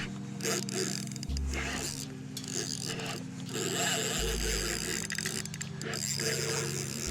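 Spinning reel ratcheting and clicking as a hooked salmon is played on the rod.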